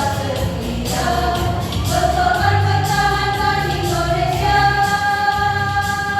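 A choir singing a march together, holding long notes, over an instrumental accompaniment with a steady bass.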